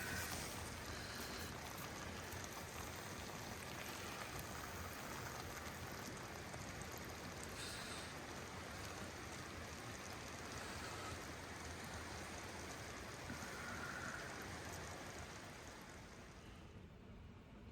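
A steady, even rushing hiss with no clear rhythm or tone, easing off slightly near the end.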